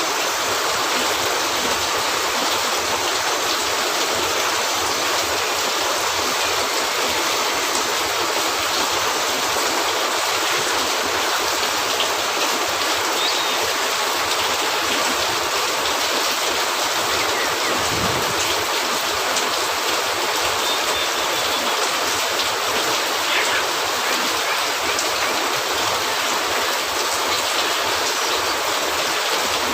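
Steady rain falling on a cabin roof, an even hiss, with a few faint ticks scattered through it and a brief low thump a little past halfway.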